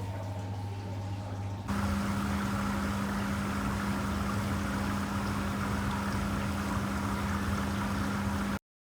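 Automatic washing machine running: a steady electrical hum, then about two seconds in a louder hum starts together with water rushing through the machine. The sound cuts off abruptly near the end.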